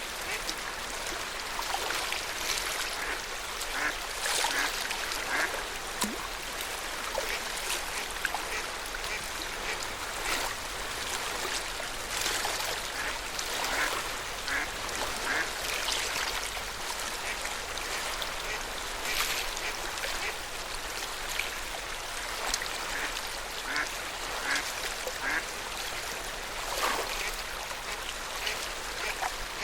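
Lake water lapping at the shore: a steady wash with many short splashes.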